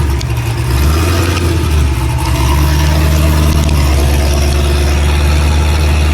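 Pontiac GTO's V8 engine running with a deep, low drone. It wavers for about the first two seconds, then settles to an even note.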